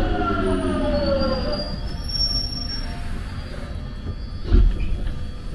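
Jubilee line tube train (1996 Tube Stock) braking into a station: the traction motor whine falls in pitch and dies away about a second and a half in, a faint high brake squeal follows, and a low thump comes near the end.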